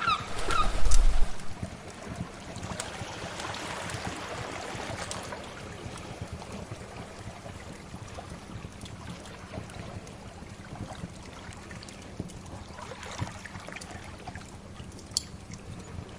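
Sea waves washing in swells, with scattered sharp crackles and pops from a wood fire. About a second in there is a brief, louder low rumble.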